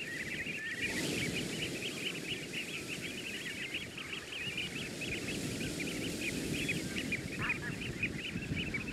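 A large flock of birds calling constantly, many short, quick calls overlapping into a dense chatter, over a steady rush of wind or surf.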